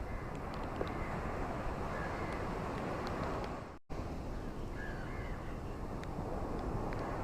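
Ocean waves washing steadily on a beach, with a few faint short bird calls over the surf. The sound cuts out for a split second just past the middle.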